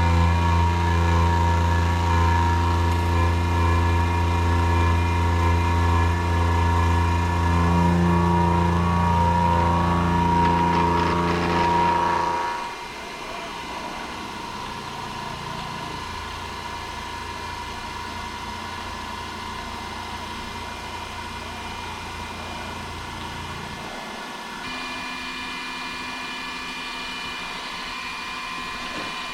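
Manual milling machine running: a loud, steady motor hum for about twelve seconds, then it drops suddenly to a quieter steady hum.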